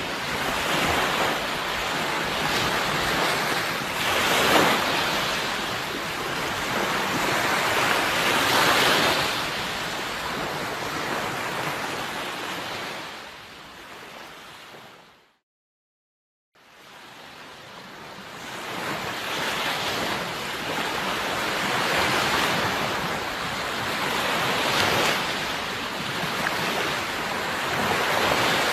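Sea surf washing in slow swells that rise and ebb every few seconds. About halfway through, the sound fades out to silence for a second and then fades back in.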